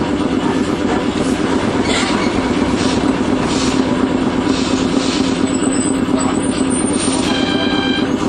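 Iyo Railway streetcar heard from inside, running along the street: a steady low motor and gear hum with wheels clacking over the rails. Near the end a short high ringing tone sounds for under a second.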